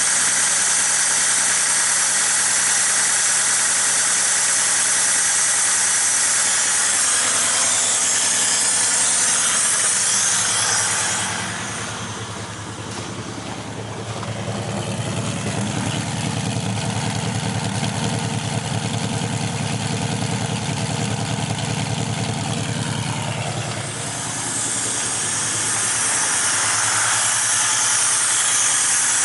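Fuel-injected 351 Windsor-based V8 (a 410-cubic-inch stroker with Edelbrock Pro-Flo 4 EFI) idling nice and even, just after a cold start at about −8 °C. A strong hiss runs over it, fades out about halfway through as the low engine note comes forward, then returns near the end.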